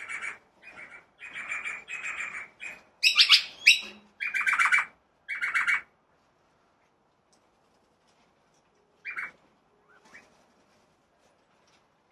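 Birds calling in a quick series of short calls for about six seconds, the loudest a little past three seconds in, then a single call near nine seconds in.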